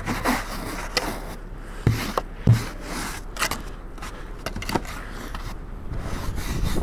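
Snow being brushed and scraped off a car in irregular strokes, with two dull thumps about two seconds in.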